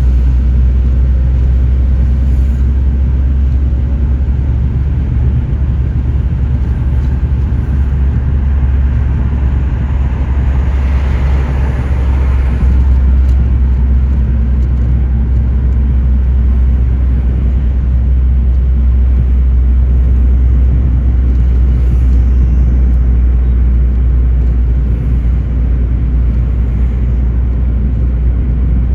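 Car driving steadily on the road, a constant low rumble of engine and road noise, with a brief swell of louder, brighter noise about eleven seconds in.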